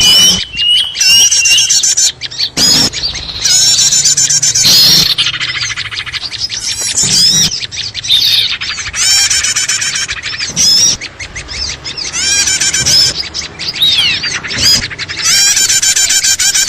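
A busy chorus of many small birds chirping, trilling and squawking over one another without a break: a noisy bird-lure (pikat) recording used to draw in small birds.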